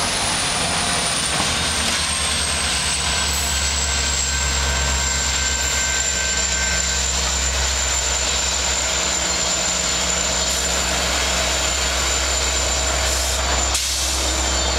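GO Transit diesel train moving slowly, its engine running with a steady low hum, and a thin high whine that falls slightly in pitch over the first few seconds and then holds.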